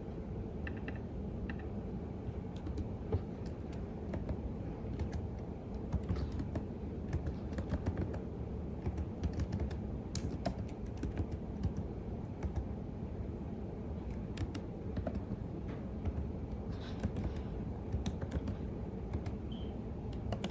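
Typing on a computer keyboard: irregular runs of key clicks with short pauses between them, starting about two seconds in, over a steady low background hum.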